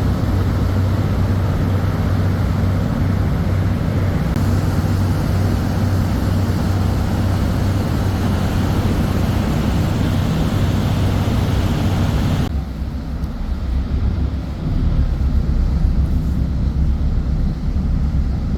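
Small tour boat's engine running steadily under way, with a rushing hiss of wind and water over it. About two-thirds of the way through the rushing drops away, leaving a lower, pulsing engine hum.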